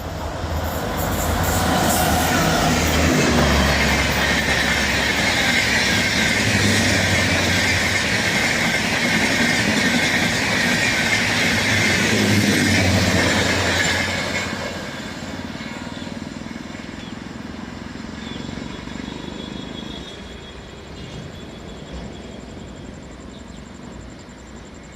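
Indian Railways train passing close by at speed: a loud, even rush of wheel and carriage noise builds over the first couple of seconds, holds for about twelve seconds, then drops off and fades as the train moves away.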